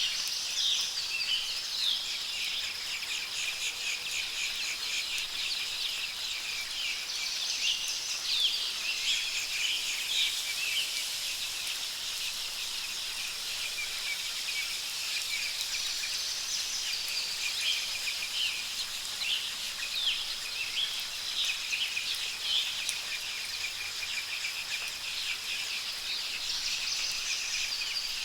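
Many small birds chirping and calling over a steady high hiss of soft rain and a thin steady high tone, with a higher call coming back every eight to eleven seconds.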